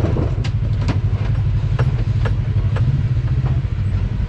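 Off-road vehicle engine running steadily at low revs, with a few sharp clicks and knocks over it.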